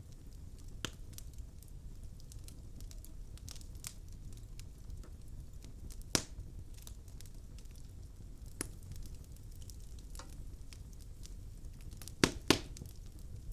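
Wood fire burning in a fireplace: logs crackling with scattered small clicks over a low rumble of flame. There is a louder pop about six seconds in and two sharp pops in quick succession near the end.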